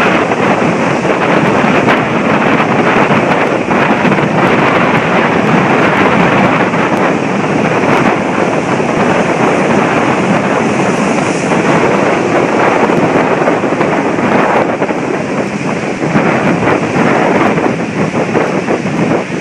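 Strong storm wind buffeting the microphone over heavy surf breaking on the beach, a loud steady rush with no let-up.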